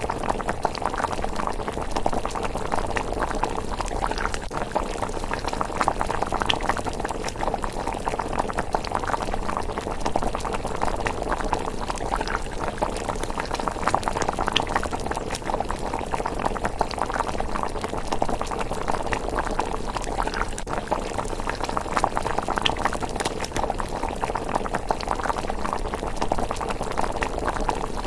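Thick rice porridge bubbling steadily in a pot. Scattered small sharp crackles from the wood fire beneath it run through the bubbling.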